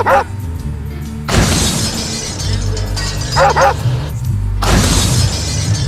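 Background music with a dog barking twice, at the start and about three and a half seconds in, and two loud crashing, hissing noises about one and a half and four and a half seconds in.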